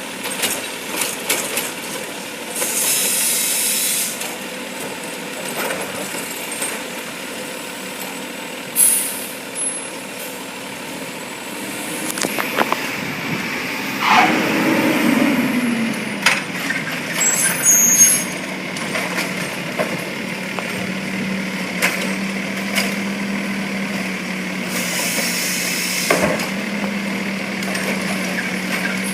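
Garbage truck working a collection route: its engine runs throughout, with two long air-brake hisses, one near the start and one near the end. Sharp knocks and clanks come in between, and a whine rises and falls in the middle. A steady low hum joins in for the second half.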